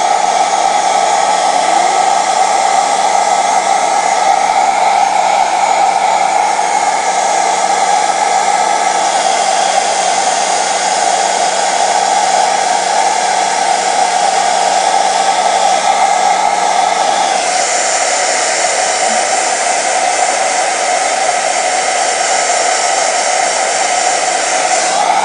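Handheld blow dryer running steadily, drying freshly bathed chickens. Its tone brightens about two-thirds of the way through.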